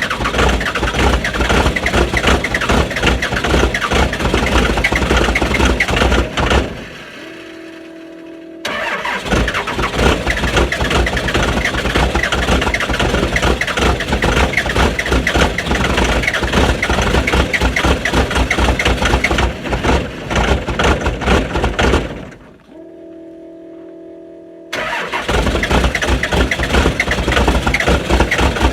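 Diesel engine clattering hard in a fast, dense knock just after a start in extreme cold. The clatter gives way twice to a much quieter steady hum, about seven seconds in and again around twenty-two seconds, each time for two to three seconds.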